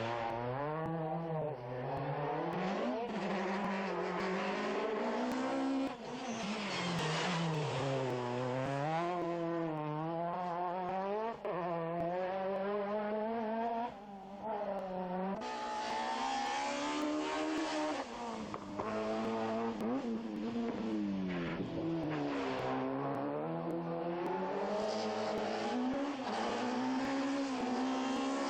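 Rally car engines revving hard, the pitch climbing and dropping again and again as the cars are driven through a stage. The sound changes abruptly about halfway through.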